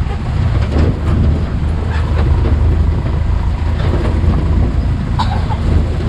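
An engine running with a steady low rumble, with scattered light knocks and rattles over it.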